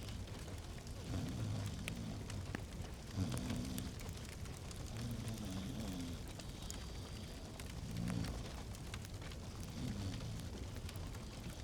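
Fire in a fireplace crackling, with frequent sharp pops and snaps over a low, steady rumble of flames.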